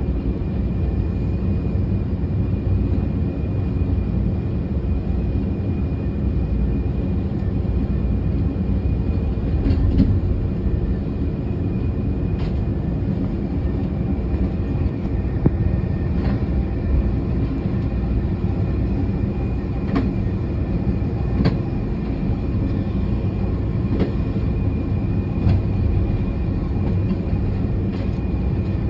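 Amtrak passenger train running at speed, heard from its rear end: a steady rumble of wheels on rail, with a thin steady high whine and a few sharp clicks at uneven intervals.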